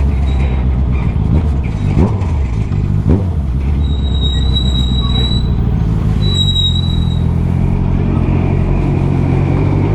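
Motorcycle engine running steadily under way, with road and wind noise. Two short sharp sounds come about two and three seconds in, and a high steady tone sounds twice, about four and six seconds in.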